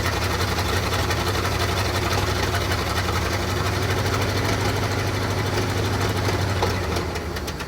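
Old Chevrolet C60 dump truck engine running steadily, then dying away near the end as it stalls. The owner takes it to be starved of fuel and in need of priming from the fuel pump.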